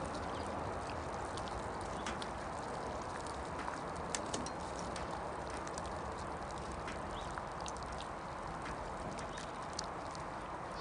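Campfire crackling, with irregular sharp pops and ticks over a steady hiss.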